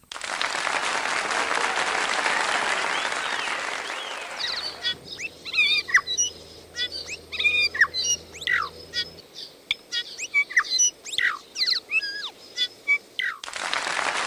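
Applause, then a New Zealand songbird singing a varied run of sharp chirps and quick up-and-down whistled sweeps for about nine seconds, with applause again at the very end.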